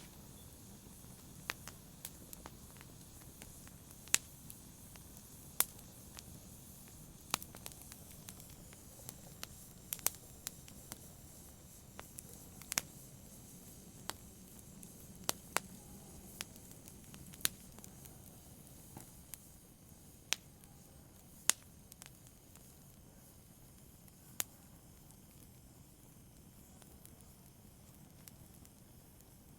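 Wood fire crackling: irregular sharp pops and snaps over a low steady hiss, sparser in the last few seconds.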